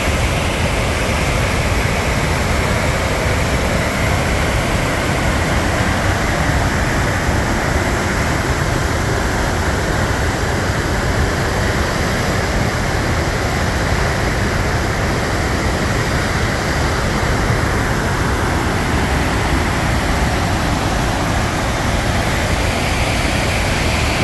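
Loud, steady rush of the Krimml Waterfalls, an even wall of falling-water noise with no breaks.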